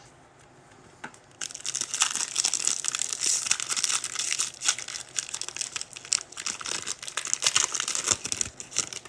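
Foil card-pack wrapper being torn open and crinkled by hand, an irregular crackling that starts about a second and a half in.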